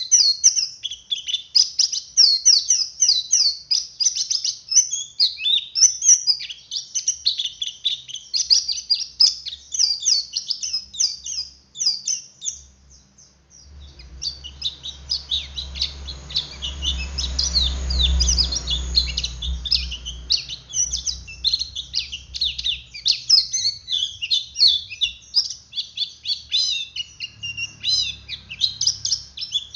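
Male pleci (white-eye) singing a fast, unbroken twittering song, the ngeriwik call, with a short pause about twelve seconds in. A low rumble swells and fades in the middle.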